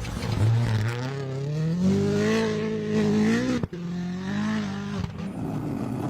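Rally car's engine under hard acceleration, its pitch climbing and then held high. It breaks off sharply for an instant about three and a half seconds in, then pulls again before dropping away about five seconds in.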